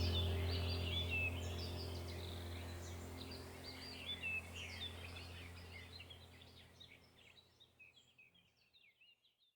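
Many small birds chirping and trilling over a low sustained drone of background music, the whole soundtrack fading out to silence.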